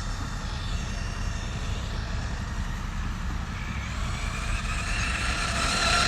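Brushless electric motor of an FSR Tank 6S RC monster truck whining at full throttle. The whine falls in pitch and fades as the truck drives off in the first second or so, then comes back louder with a rising whine in the second half, over a steady low rumble.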